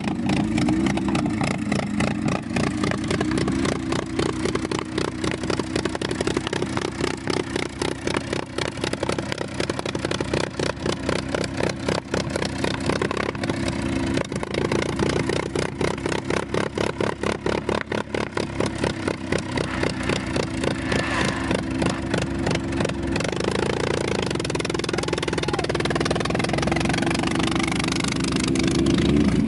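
A vintage car's engine idling close by, its exhaust pulses distinct and even, with the engine note changing somewhat in the last few seconds.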